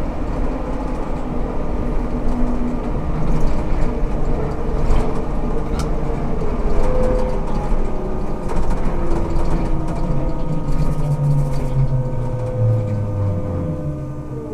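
Ikarus 280T GVM articulated trolleybus running, with its electric drive making a hum of several steady tones over rolling noise. Gliding tones rise and fall, and a low tone slides down in the last few seconds as the sound eases off.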